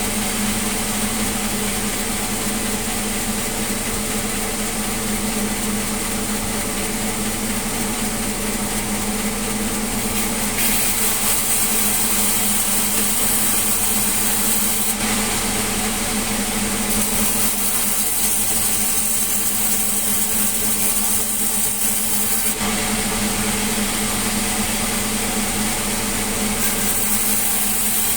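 Sawmill saw machinery running steadily with a constant engine-like hum. A high sawing hiss grows brighter and fades back in stretches of several seconds as the blade works through timber.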